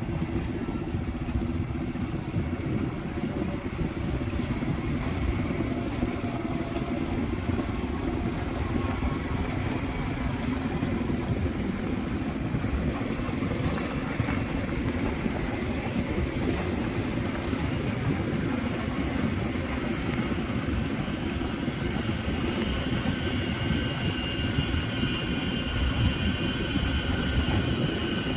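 Motorbike engine running steadily with wind and road noise while riding. From about two-thirds of the way through, a shrill high-pitched whine rises over it and grows louder toward the end.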